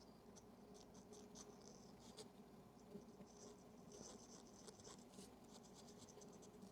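Near silence with faint, irregular scratching and scraping from small hand work on a camera part, with an occasional light click.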